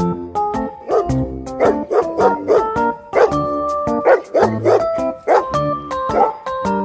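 Dog barking repeatedly in short runs of quick barks, over background music with a steady beat.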